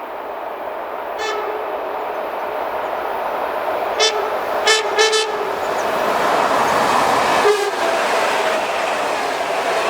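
An electric train approaching, its running noise growing steadily louder, and sounding its horn in five short blasts: one about a second in, three close together around the middle, and one more a couple of seconds later.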